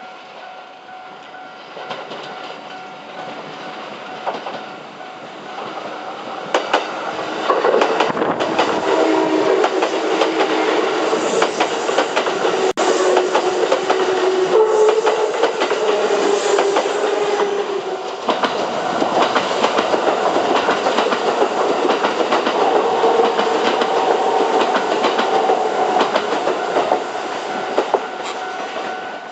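A train passing over a Japanese railway level crossing, its wheels clattering over the rail joints; the noise builds and turns loud about seven seconds in. The crossing's warning bell rings steadily throughout.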